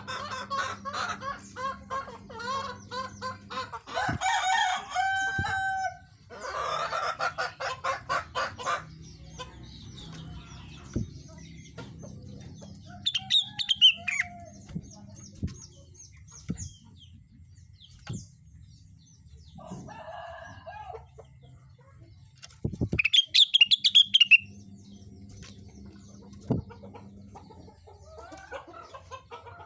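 A rengganis bird calling in bouts: long runs of rapid, repeated clucking notes through the first nine seconds, then shorter high-pitched calls midway and a loud high burst about 23 seconds in. Sharp clicks are scattered between the calls.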